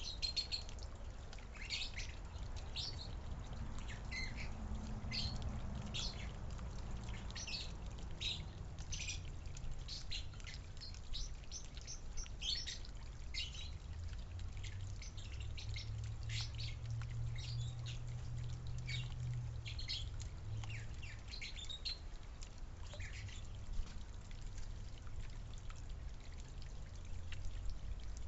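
Small backyard birds chirping: a run of short, high chirps that come thick and fast and thin out near the end, over a low steady rumble.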